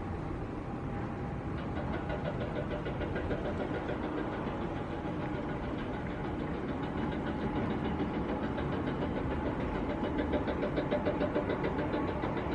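Aircraft engines running steadily with a fast, even pulsing, slowly growing louder.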